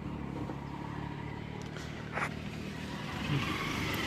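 Steady low engine hum, with a short click about two seconds in.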